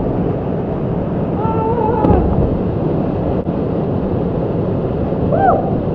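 Steady rushing of a waterfall pouring into its pond, with faint shouts twice, about a second and a half in and near the end.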